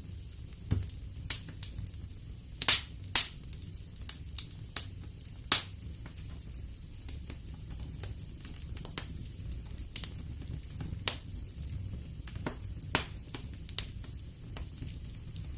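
Wood fire burning in a fireplace, crackling with irregular sharp pops over a low steady rumble; the two loudest pops come close together about three seconds in.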